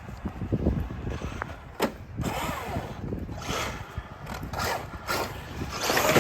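Radio-controlled truck's electric motor whining up and down in short bursts, with tyres scrabbling and knocks over rough ground.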